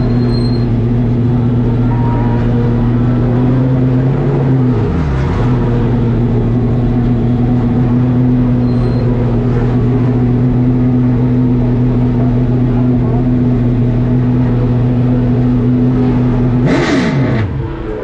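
Late model stock car's V8 engine running at a steady pitch. It dips briefly about five seconds in and falls away again near the end with a short rush of noise, as the car lifts off the throttle.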